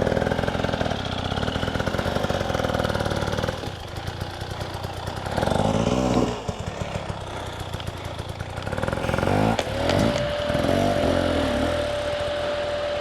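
KTM 300 EXC two-stroke dirt bike engine running, then dropping back and being blipped, its revs rising and falling twice, before holding a steady note near the end.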